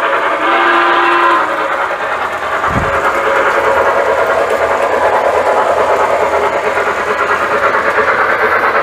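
Lionel model train running around the layout's track with a steady rhythmic clatter. A whistle sounds and stops about a second and a half in, and a single low thump comes near three seconds in.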